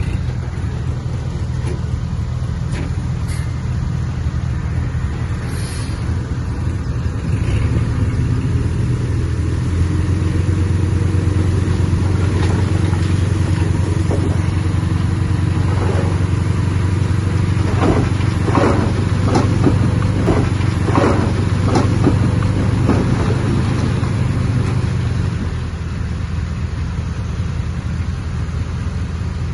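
Komatsu D20P bulldozer's diesel engine running steadily, working harder about eight seconds in and easing back near the end. In the middle there is a run of clanks and rattles from the machine working stone.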